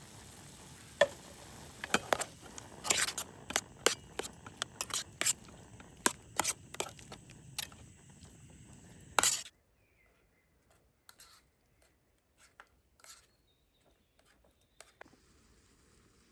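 Food sizzling in a pan, with a utensil stirring and clinking against it in quick sharp clicks. About nine seconds in it cuts off suddenly to quiet outdoor background with a few faint clicks and short bird chirps.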